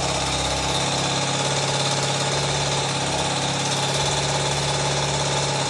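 Motorcycle engine idling steadily after being started with its push-button starter.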